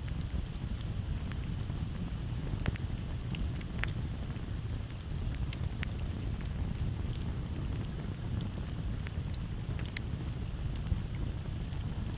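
Campfire crackling, with frequent sharp pops and snaps scattered irregularly over a steady low rumble of breeze, and a steady high chirring of crickets behind.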